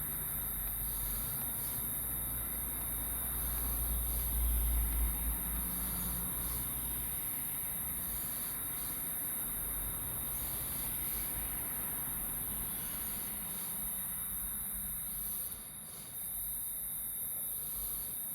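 Outdoor background noise: a low rumble, strongest in the first few seconds, under a steady high-pitched hiss.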